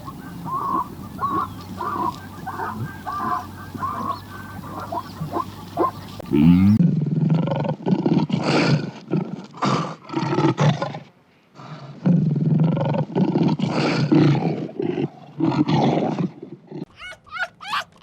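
A big cat giving a run of loud, rasping roars in repeated bursts, broken by short pauses. Before it, a few seconds of rhythmic animal calls sound over a steady hum, and near the end the sound cuts to rapid high chirps.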